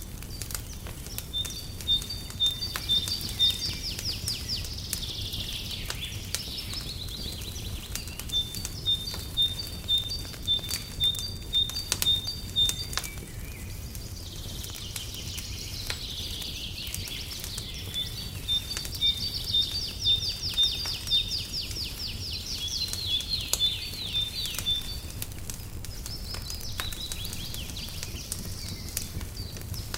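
Songbirds singing in repeated phrases of high, evenly repeated chirps and quick trills, over the scattered pops and crackles of a wood fire burning in a fireplace. A low steady rumble sits underneath.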